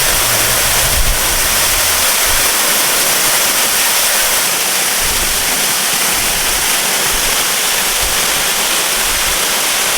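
Manoa Falls and its stream pouring at the base of the falls, a loud, steady rush of water. The falls are running strong, swollen by a week of rain.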